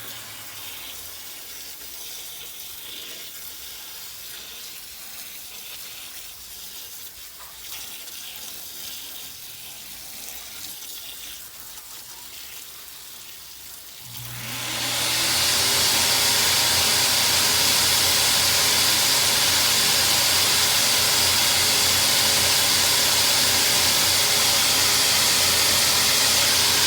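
Water spraying onto an air-conditioner condenser during a soap-and-water cleaning: a faint hiss for about the first half, then a sprayer's motor starts with a steady hum and the loud hiss of the spray.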